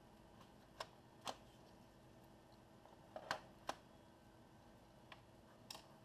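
Sharp plastic clicks and light knocks from handling an Acer Aspire E1-571G laptop during battery removal: about seven separate clicks spread over a few seconds, the loudest a little past three seconds in, over a faint steady hum.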